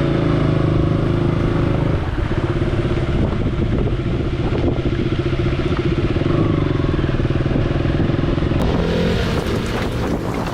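KTM Duke motorcycle engine running at steady revs. About eight and a half seconds in, the engine note drops back and a hissier, wind-like sound takes over.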